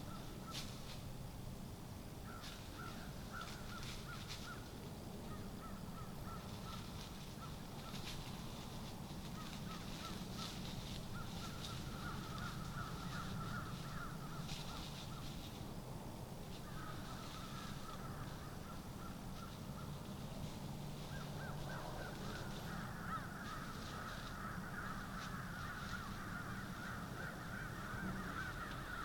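Birds calling in repeated runs of short calls throughout, with scattered brief higher notes over a steady low background hum.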